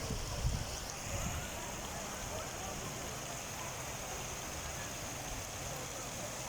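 Water rushing with a steady, even noise.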